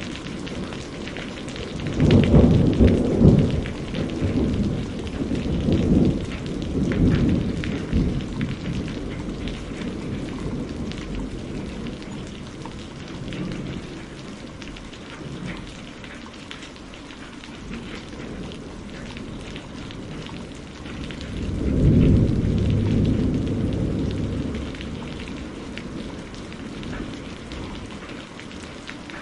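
Steady rain with rolling thunder. A long rumble starts about two seconds in and dies away by about eight seconds, and a second one about twenty-two seconds in rolls off over a few seconds.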